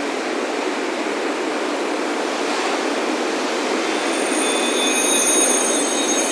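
Steady rush of ocean surf on a beach, joined about four seconds in by metal wind chimes ringing in several high, lingering tones.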